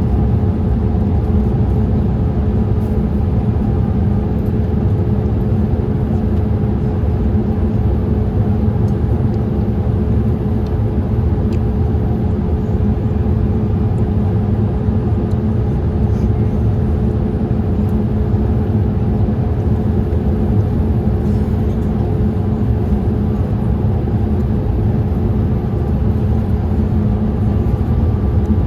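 Steady cabin noise inside a Boeing 787-8 in flight: a constant low rumble of engines and airflow with a few steady hum tones.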